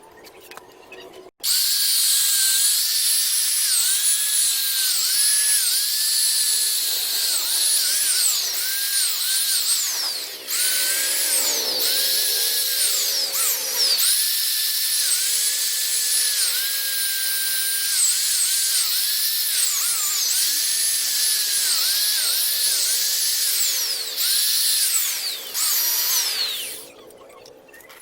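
Electric power tool buffing a motorcycle exhaust pipe: a high motor whine that starts abruptly, sags in pitch again and again as it is loaded, each time climbing back, and stops shortly before the end.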